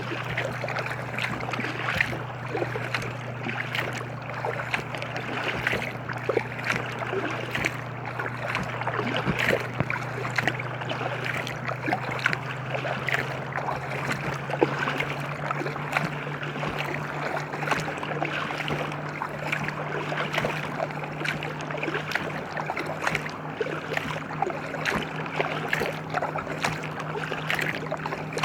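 Water splashing and lapping around an inflatable kayak under way, with a steady low motor hum underneath that rises slightly in pitch about halfway through.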